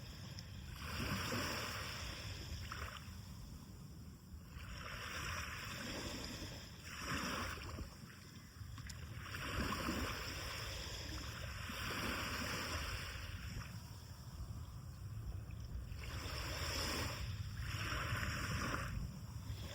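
Sea of Japan surf breaking on the beach: waves rush in and draw back in repeated swells every couple of seconds, over a steady low rumble.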